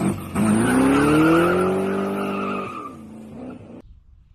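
A car engine revving up, its pitch rising and then held at high revs before it falls away and cuts off abruptly near the end.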